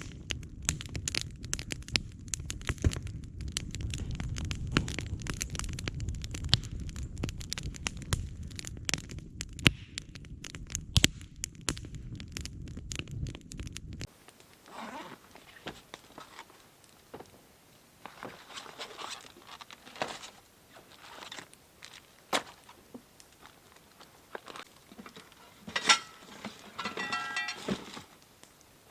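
Wood campfire crackling and popping, with a low rumble of flames under dense snaps for about the first half. The fire then turns quieter, with sparse pops and crackles, and a few pitched notes come in near the end.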